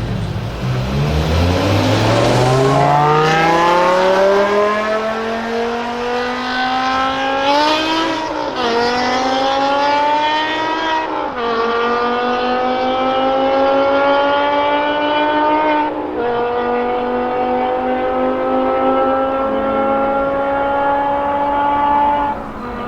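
BMW performance car engine accelerating hard through the gears. The pitch climbs steadily and drops at three upshifts, about eight, eleven and sixteen seconds in, with each higher gear pulling more slowly.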